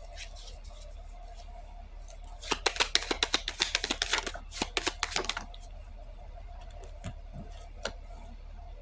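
A deck of cards being shuffled: a quick run of crisp, flapping clicks for about three seconds in the middle, then two single soft taps. A faint steady hum lies underneath.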